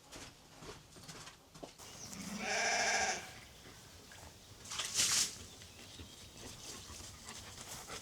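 A sheep bleating once, a wavering call about a second long. A short hissing noise follows about two seconds later.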